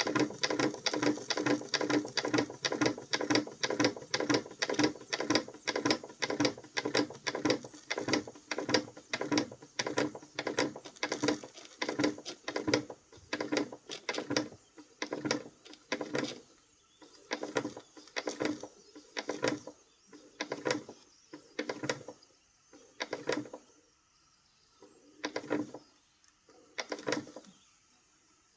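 Vintage Krick model marine steam engine running with a rapid, even chuffing beat of about four strokes a second that slows steadily, thinning to sparse, irregular beats about a second apart near the end as the engine winds down.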